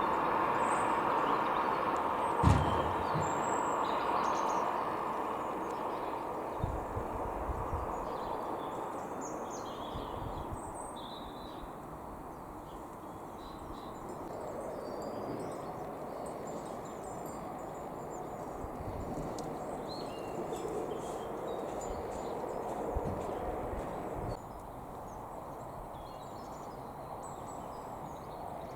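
Small birds chirping in short, scattered calls over a steady outdoor background noise; the background drops suddenly near the end.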